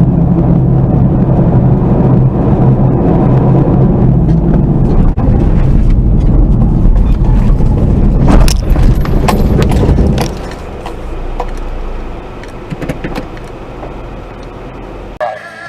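Car road and engine rumble picked up by a dashcam, with a cluster of sharp knocks and rattles about eight to nine and a half seconds in. After that it drops to a quieter rumble.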